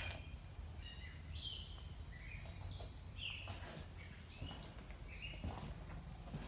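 Faint birdsong: a string of short chirps and twittering notes about every second, some sliding up or down in pitch, over a steady low background hum.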